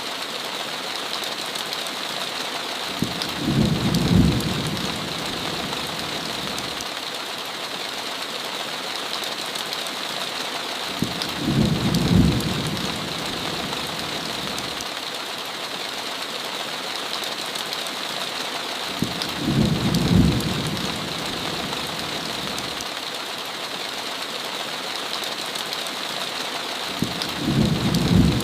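Heavy rain falling steadily against a window, with a low rumble of thunder about every eight seconds, four times in all.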